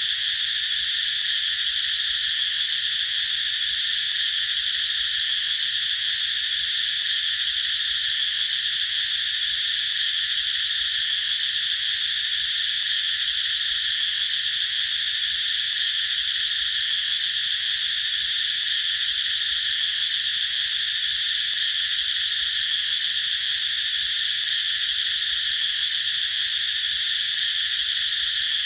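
Chorus of cicadas calling, a steady high-pitched buzz that holds constant without pauses.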